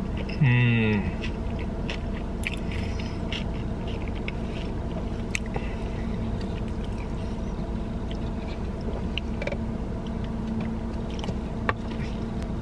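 A person chewing food, with small clicks and scrapes of takeout containers, over a steady low hum in a car cabin. About half a second in there is a brief falling vocal hum.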